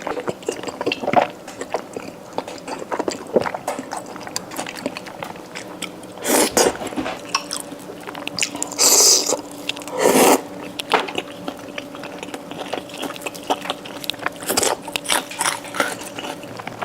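A person eating wide starch noodles in a spicy soup close to the microphone: wet chewing with many small clicks, and three louder bursts about six, nine and ten seconds in.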